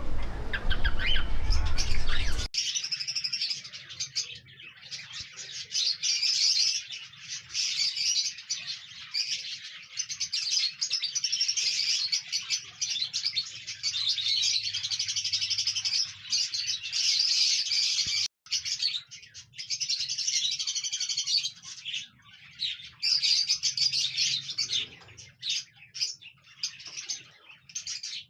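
Cockatiels chirping and singing in quick high bursts with short pauses. For the first couple of seconds a loud low rumble lies under the calls, cutting off suddenly.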